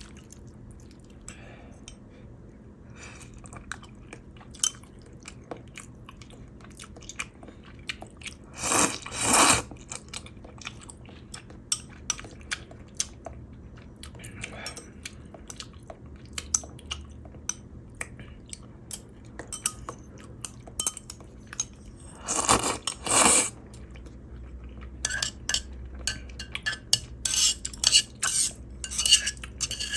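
Eating ramen from a clay pot: chewing with many small clicks, two loud slurps about nine and twenty-three seconds in, and from about twenty-five seconds a rapid run of utensil clinks against the pot.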